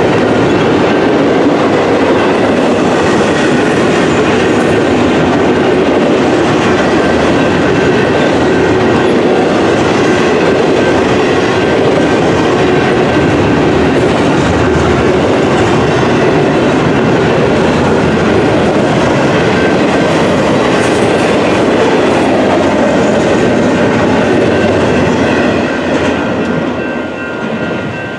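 Union Pacific intermodal freight train's cars rolling past at speed: a loud, steady rumble and clatter of wheels over the rails. Thin, steady high ringing tones sit above it. The train noise starts to fall away near the end.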